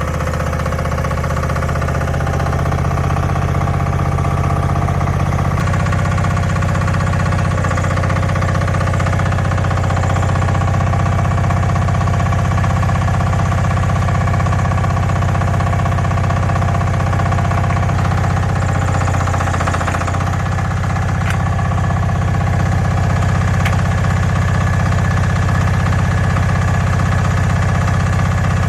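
A small engine running steadily at a constant speed, with a brief dip in its note a little over two-thirds of the way through.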